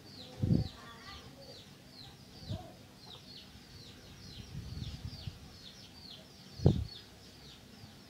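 A bird chirping over and over: short, high chirps that fall in pitch, about three a second. A few dull thumps come in between, the loudest about two-thirds of the way through.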